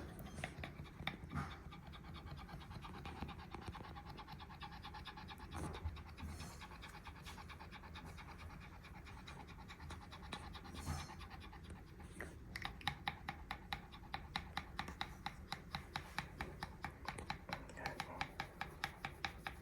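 Pekingese panting hard after a walk: a fast, rattling, flat-nosed breath that sounds like a motorcycle engine idling. A little past the middle, the pants turn louder and more distinct, about four a second.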